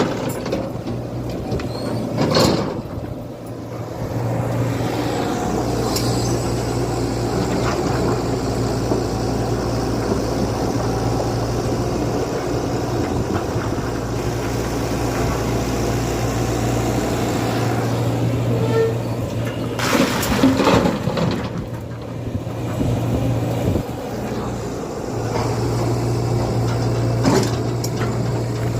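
Tata Hitachi EX120 excavator's diesel engine running steadily under load while loading a truck, with a few sharp knocks or clanks, the loudest about two-thirds of the way through.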